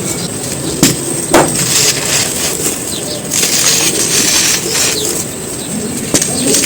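Dry, semi-gritty balls crunching and crumbling as they are crushed, a gritty crackle with a few sharp cracks, two of them about a second in.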